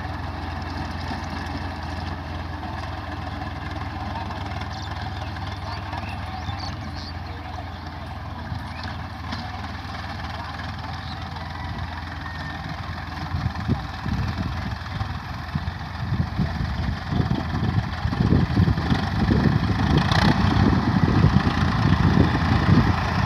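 Swaraj 855 FE tractor's three-cylinder diesel engine running steadily at a low speed. Past the halfway mark it grows louder and rougher.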